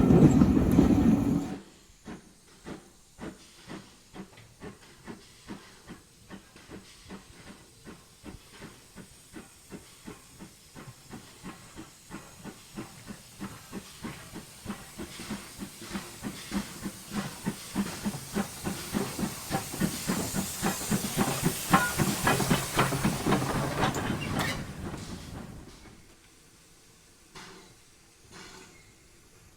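A second of loud train running noise, cut off abruptly, then a heritage steam locomotive pulling away: evenly spaced exhaust chuffs with steam hiss, slow at first and quickening as it gets going. The beats grow louder, then fade away about 25 seconds in.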